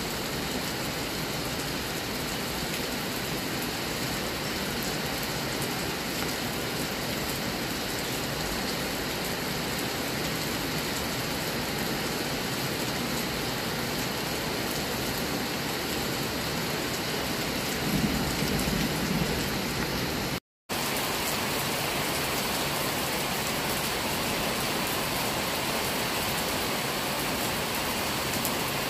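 Steady rain falling on trees and grass, an even hiss. A short low rumble swells about eighteen seconds in, and the sound drops out for a split second soon after.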